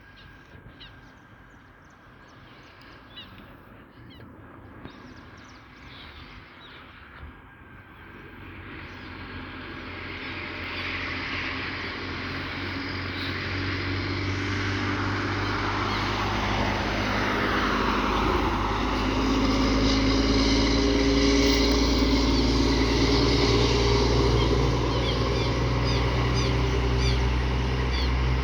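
Scania truck with a straight-through exhaust ('diretão') approaching: its deep engine note builds steadily from faint to loud over about twelve seconds, then holds loud and steady. Birds chirp faintly in the first few seconds.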